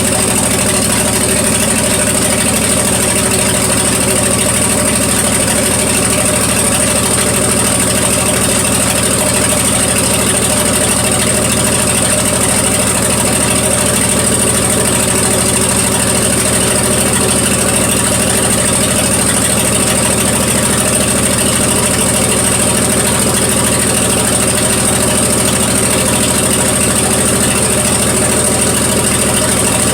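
1974 Plymouth Duster's slant-six engine idling steadily as it warms up after a cold start in below-freezing weather.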